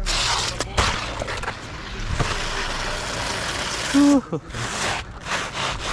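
Roofing work on asphalt shingles: scraping and rustling as shingles are handled and slid, with several sharp knocks. About four seconds in comes a short, loud pitched sound that falls in pitch.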